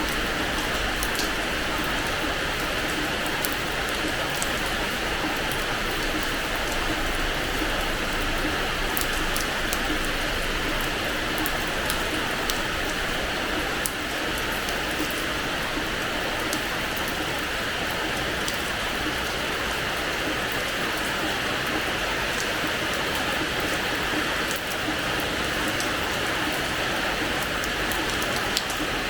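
Steady rain falling on a hard terrace floor: an even hiss of rain with scattered sharp drop ticks.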